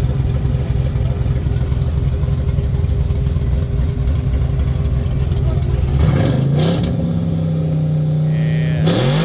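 Car engine running with a low rumble, revved up about six seconds in and held at a raised speed, then revved and let fall again near the end, over background crowd chatter.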